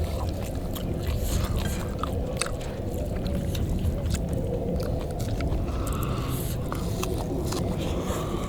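Eating sounds: chewing, with small scattered clicks and scrapes, over a steady low rumble.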